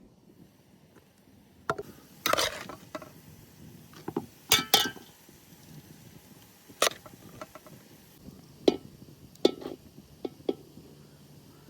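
Dishes and utensils clinking and knocking, about ten separate strikes spread unevenly, the loudest a pair of ringing clinks about halfway through.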